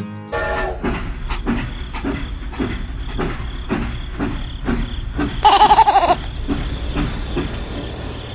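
Homemade mini train running on its track, its wheels clicking over the rail joints about three times a second. About five and a half seconds in there is a short, loud, wavering high note.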